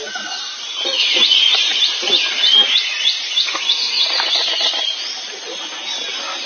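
Birds chirping: a quick run of short, high notes, several a second, that starts about a second in and thins out near the end.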